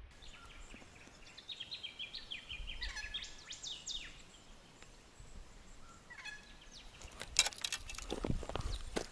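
A bird calling outdoors: a quick run of short, stepped whistled notes about two to four seconds in, over low wind rumble on the microphone. Near the end come a cluster of sharp clicks and rustles, as of handling or movement close to the microphone.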